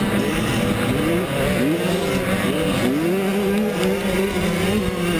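Several 85cc two-stroke motocross bikes racing, their engines repeatedly rising and falling in pitch as the riders work the throttle and shift gears.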